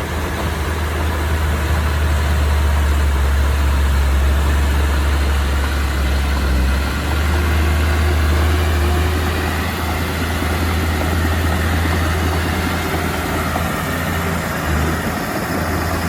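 Heavy diesel engine of earthmoving machinery running steadily, a deep low rumble with a constant mechanical noise above it.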